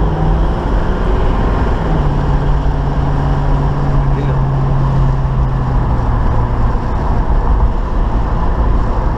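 1972 Chevy Nova's 350 Chevy small-block V8 running: a steady low rumble with an engine note that slowly sinks in pitch and fades out about seven seconds in.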